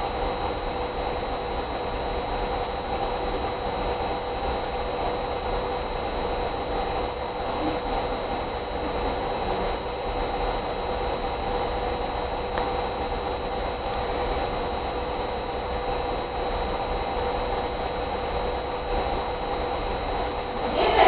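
Steady hiss with a constant electrical hum, with no clear separate sounds over it.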